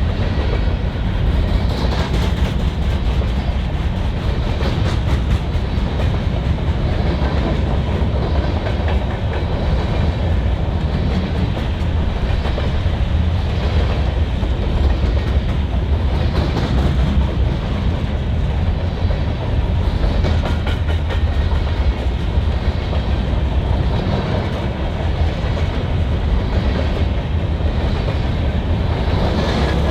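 Freight train cars rolling past at speed: a steady heavy rumble of steel wheels on rail, with wheel clicks recurring about every two seconds.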